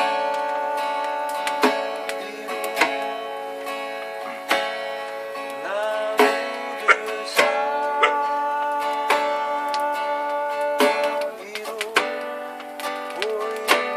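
Live acoustic guitar music: strummed chords ringing out, with held notes that now and then slide into pitch.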